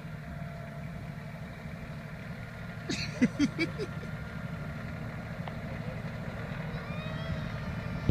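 Tractor engine running steadily. About three seconds in there is a quick run of four or five short, sharp sounds.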